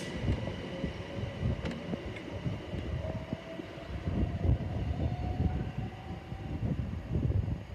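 Class 387 electric multiple unit pulling away: a faint motor whine climbing slowly in pitch over the uneven rumble of the wheels on the track.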